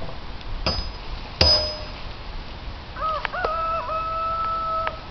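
Two sharp metallic clangs, each ringing briefly, then a rooster crowing once for about two seconds, rising twice before a long held note.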